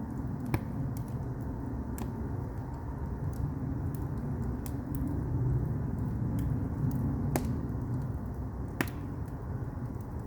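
Firewood burning in an agungi firebox: a steady low rumble of the flames with scattered crackles, and sharp pops about half a second in and twice more near the end.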